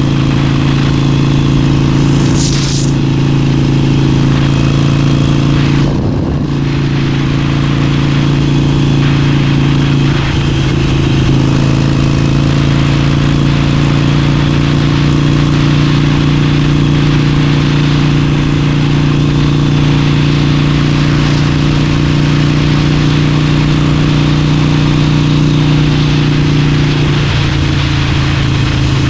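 Harley-Davidson Forty-Eight's air-cooled V-twin engine pulling steadily at highway speed, its pitch dipping briefly a few times early on and changing again near the end, with wind rushing over the microphone.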